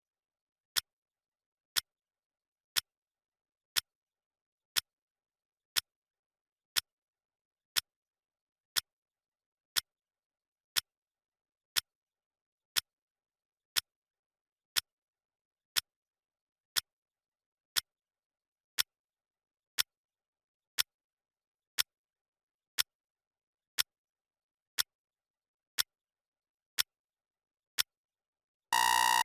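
Clock ticking once a second, each tick a short sharp click. Near the end an electronic alarm beep starts, a steady high tone marking the end of the countdown.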